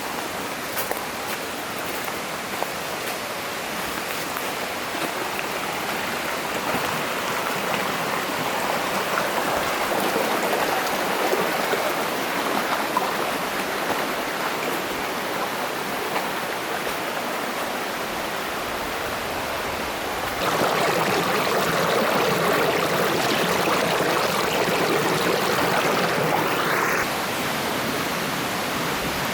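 Mountain stream water rushing steadily over rocks. The rush steps louder about two-thirds of the way through and falls back again near the end.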